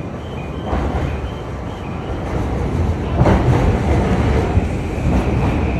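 Yamanote Line E235-series electric train pulling into the station platform: the rumble of its wheels and running gear grows louder as it comes alongside, heaviest from about halfway through.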